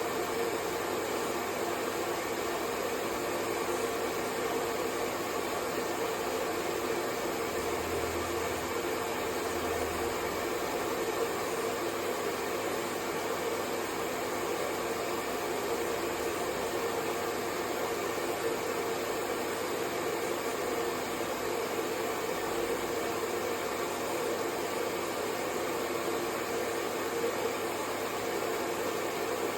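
Hair dryer blowing steadily: an even rushing hiss with a faint hum, unchanging throughout.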